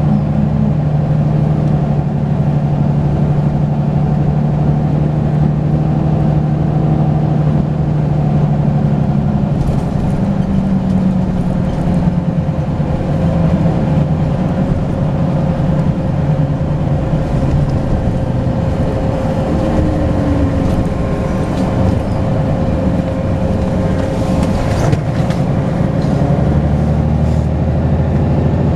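Volvo B10BLE bus's turbocharged six-cylinder diesel running under way, with a steady whine from the turbocharger over the engine note. The engine pitch holds for several seconds, then drops and wanders as the bus changes speed, and a few brief rattles come through.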